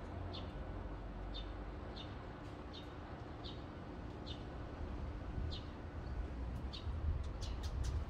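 A bird repeating short, high chirps, each one dipping slightly in pitch, roughly once or twice a second, over a steady low rumble. A few sharp clicks come in near the end.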